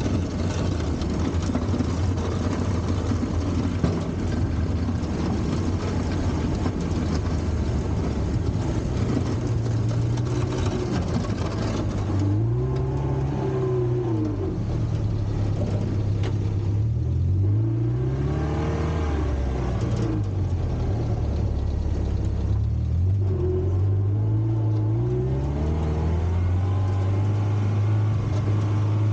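Four-cylinder Volvo gasoline engine of a 1960s Kalmar baggage tractor running steadily, then revving up and back down three times in the second half before settling to a steady run again.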